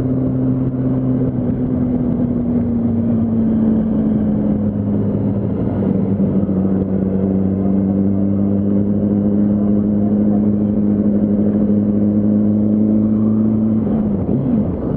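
Yamaha R1's inline-four engine running at a steady cruise while riding in traffic, its note easing down slightly in the first few seconds and then holding even, with a brief sharp drop in pitch near the end, over road and wind noise.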